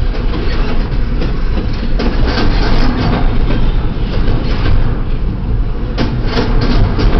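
Pan Am Railways double-stack intermodal freight train rolling past, a steady heavy rumble of steel wheels on rail. Sharp clicks break through now and then, several of them about six seconds in.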